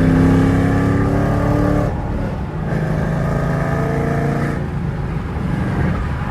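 Camaro SS V8 breathing through long-tube headers, no catalytic converters and MPP mufflers, accelerating hard in a full-throttle pull. Revs climb, break briefly for an upshift about two seconds in, climb again, then ease off.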